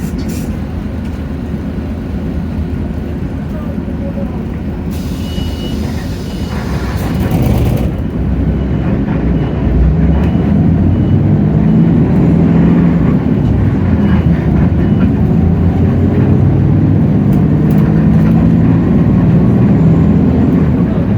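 Hino J08E-VN six-cylinder diesel of a city bus, heard from inside. It runs low and steady, then a burst of compressed-air hiss comes about five seconds in and lasts a few seconds, with a thin repeating beep. From about eight seconds the engine runs louder under load as the bus pulls away.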